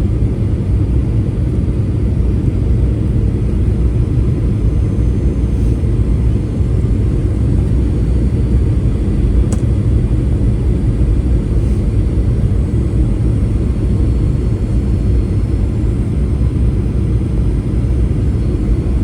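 Jet airliner's engines giving a steady low rumble, with a faint high whine above it.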